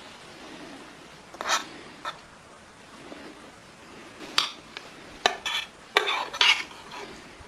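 A metal utensil clinking and scraping against a cooking pot, with a handful of sharp knocks: one a little after a second in, another at two seconds, then a quicker run of clinks in the second half.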